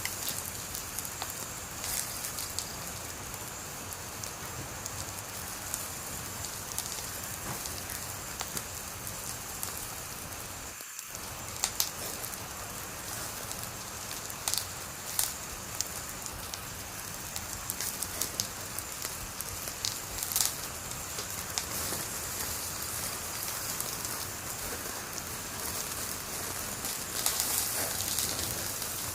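Wood fire burning: a steady hiss with scattered sharp crackles and pops, and a brief dip in the sound about a third of the way in.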